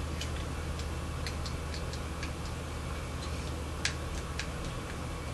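Light, irregular clicking and ticking, about two clicks a second, from a battery-operated toy puppy being handled and checked while it fails to work properly. A steady low hum runs underneath.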